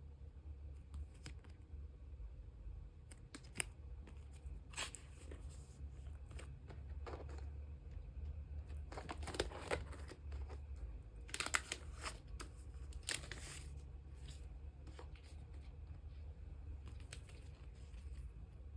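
Thin plastic sleeves crinkling and rustling as photocards are handled and slid into them: short scattered rustles, with longer stretches around the middle. A steady low hum runs underneath.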